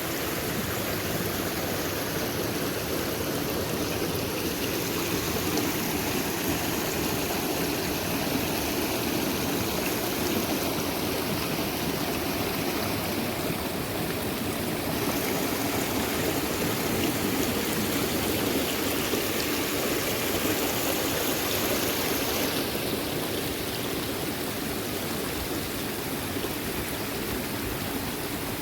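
Water spilling over an overflowing check dam in a small waterfall: a steady rushing splash.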